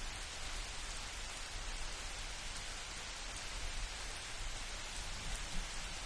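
Steady rain falling on leaves and ground, an even patter, with a low rumble underneath.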